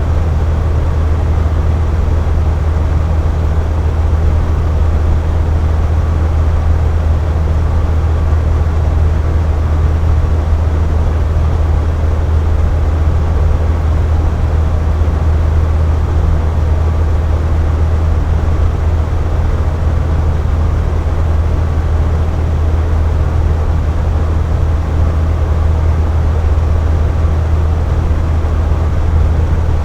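Box fan running steadily: a constant low hum under an even airy rush, unchanging throughout.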